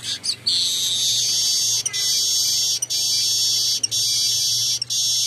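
Golden-headed weaver (manyar) singing: a few short high chirps, then about half a second in a loud, high, buzzy sizzling trill held in roughly one-second stretches with brief breaks between them.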